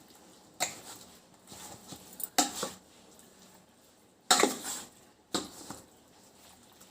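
A spoon clinking and scraping against a bowl in about four short strokes, the loudest a little past the middle, as raw chicken is mixed with its marinade.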